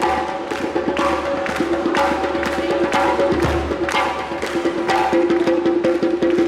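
Live percussion group playing a steady drum rhythm, with sharp wood-block-like strikes about twice a second over a held pitched note.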